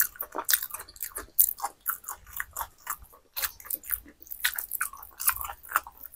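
Close-up chewing of a mouthful of food: a quick, irregular run of short mouth clicks and smacks.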